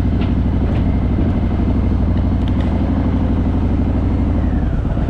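A vehicle engine idling steadily with a low rumble, and a faint steady whine above it that fades out near the end.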